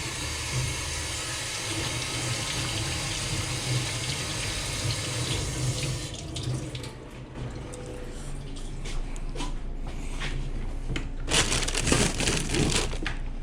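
Kitchen tap running into a sink while hands are washed; the water stops about six seconds in, followed by light clicks and handling noises and another short rush of noise near the end.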